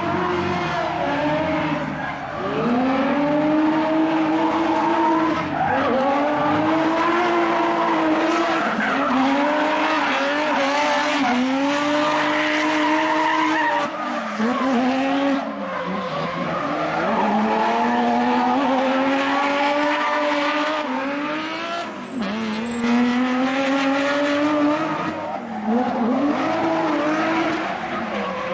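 Competition drift car engine revving hard through a slide, its pitch climbing and dropping again and again with the throttle, over tyre squeal.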